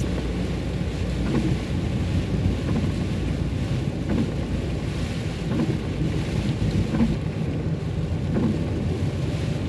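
Steady low rumble of a car driving on a wet road in the rain, heard from inside the cabin, with faint soft knocks about every second and a half.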